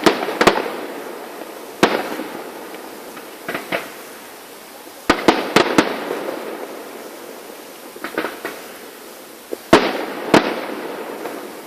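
Fireworks going off: sharp bangs in clusters of one to three every couple of seconds, each trailing off as it fades.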